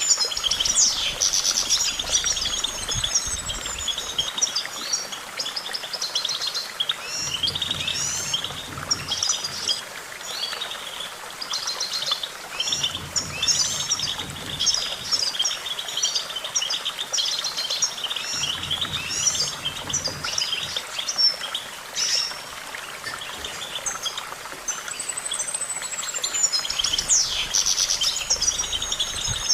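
European goldfinch singing: a fast, unbroken twittering song of quick chirps and trills, with a long falling whistle near the start and again near the end. A faint low hum comes and goes underneath.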